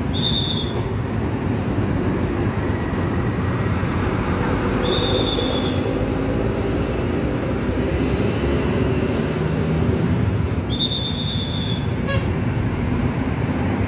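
Steady rumbling noise of a moving vehicle, with three short high-pitched beeps about five seconds apart.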